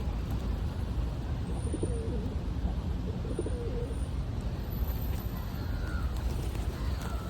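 Bird calls: two short low phrases about a second and a half apart, then a fainter higher falling call about five seconds in, over a steady low rumble.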